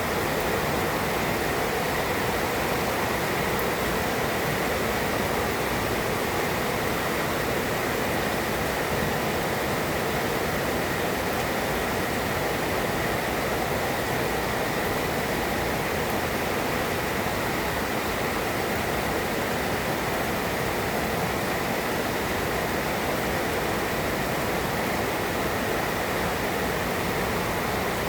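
Heavy rain pouring down steadily, an even hiss with no thunderclaps or gusts standing out.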